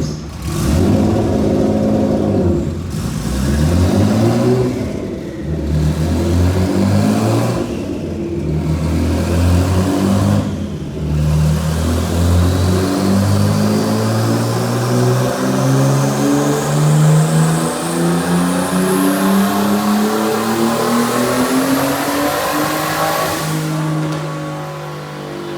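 Twin-turbo BMW straight-six at full throttle on a dyno: several quick upshifts in the first eleven seconds, then one long pull climbing in pitch for about twelve seconds with a high whine rising alongside, and a lift-off near the end.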